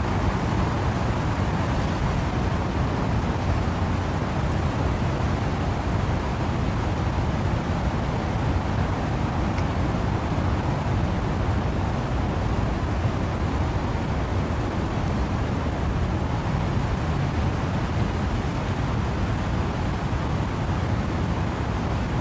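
Wind-driven rain in trees, a steady, even rush of noise that is heaviest in the low end.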